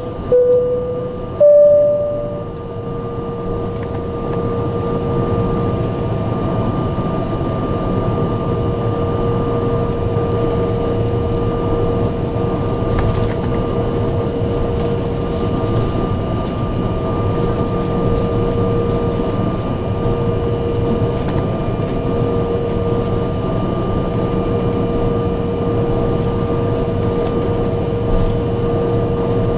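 The General Electric CF34 turbofans of an Embraer 175, heard from inside the cabin: a steady whine over a constant rushing noise. Two short, loud tones come within the first two seconds.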